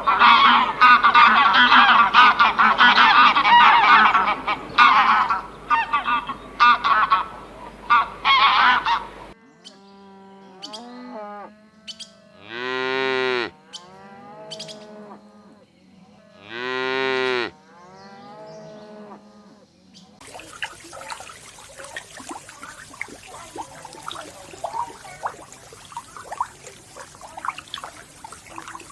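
A flock of geese honking loudly and continuously for about nine seconds. Then a cow mooing: short calls with two long, loud moos that rise and fall in pitch. Near the end comes fainter, busy chatter from a flock.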